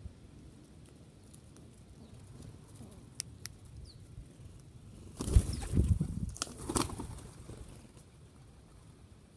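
A bird's wings flapping close by: a loud flurry of wingbeats lasting about two seconds, a little past the middle.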